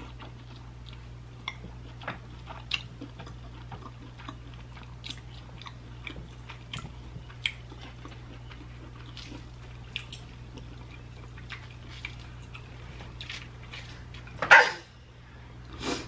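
Close-miked mouth sounds of a person eating seafood: chewing with soft wet clicks scattered throughout, over a steady low hum. One louder, noisier sound comes near the end.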